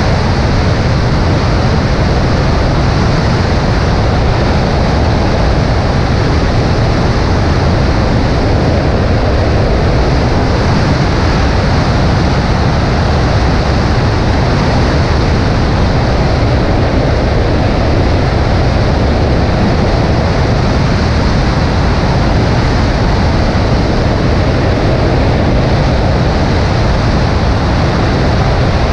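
Steady, loud rush of airflow and engine noise in flight, picked up by a camera mounted on the right wing of a Cessna 140A light airplane.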